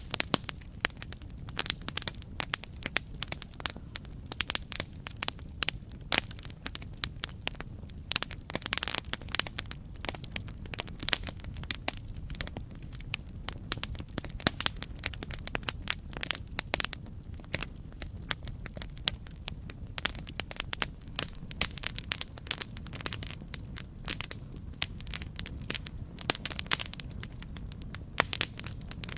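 Campfire burning with irregular, frequent sharp crackles and pops over a steady low rumble of flames.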